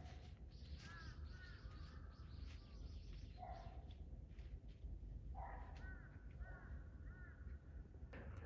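Faint bird calls in the distance, in runs of three or four short arched notes, about a second in and again over the second half, over a steady low outdoor rumble.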